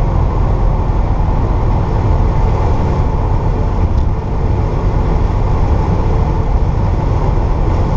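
1964 Pontiac GTO's 389 V8 with Tri-Power carburettors running steadily while the car is driven, a constant low engine drone with road noise.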